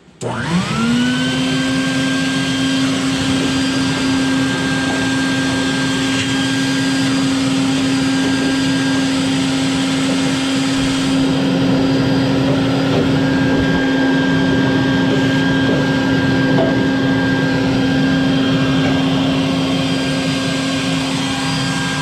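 Vacuum cleaner switched on, its motor whine rising quickly to a steady pitch and then running steadily as it sucks dust and debris out of the bottom of a gas furnace.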